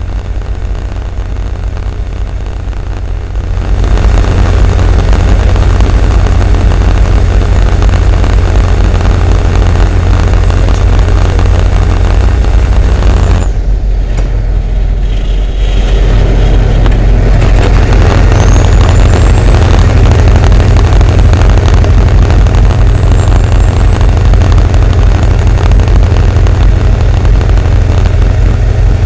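Vehicle driving on a snowy road: a steady, loud low rumble of engine and road noise. It drops away suddenly about thirteen seconds in and comes back a couple of seconds later.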